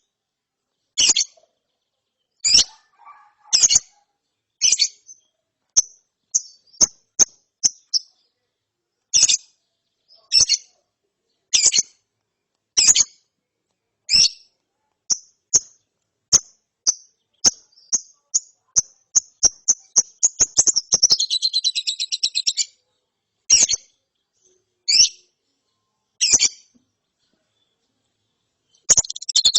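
Young lovebird chirping: short, high chirps about once a second that quicken into a rapid continuous trill (the 'ngeriwik') for about two seconds, then single chirps again, with another rapid trill starting near the end.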